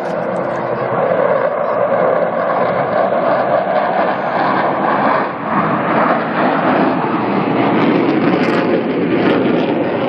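Loud roar of a military jet flying past, swelling in at the start and holding loud, with a short dip about five seconds in.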